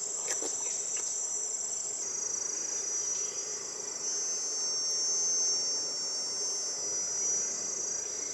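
A chorus of insects, a steady high-pitched shrill made of several close tones, shifting slightly about two seconds in and again about four seconds in.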